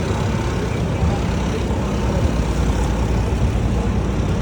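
Busy city street ambience: a steady rumble of passing traffic with faint voices in the background.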